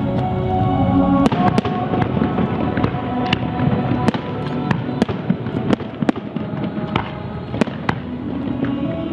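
Aerial fireworks display: shells going off in an irregular run of sharp bangs and crackles, one or two a second, over music playing along with the show.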